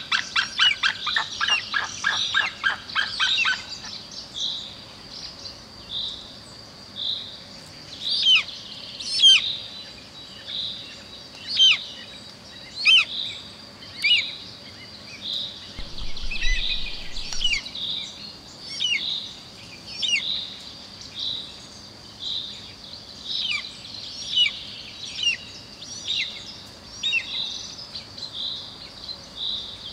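Birds calling: a fast series of ringing yelps for about the first four seconds, then a high note repeated steadily about once every 0.7 s, with sharp descending whistles over it every second or two.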